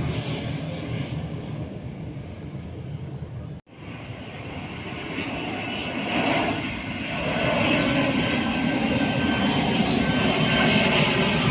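Airplane flying overhead: a steady engine drone that fades. It drops out abruptly about four seconds in, then comes back and grows steadily louder.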